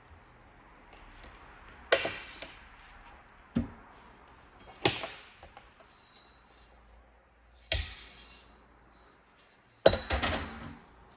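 Five sharp knocks and clatters of hard objects being handled and set down, a few seconds apart, the last a quick rattling cluster.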